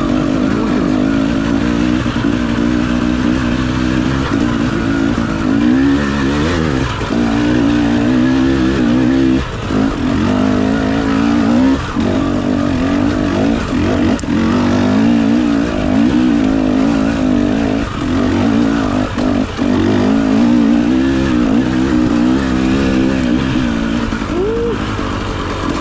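Enduro dirt bike engine working on the trail, with the throttle constantly opening and closing so the pitch rises and falls. The engine drops off briefly several times, once about ten seconds in and again around twelve, eighteen and nineteen seconds.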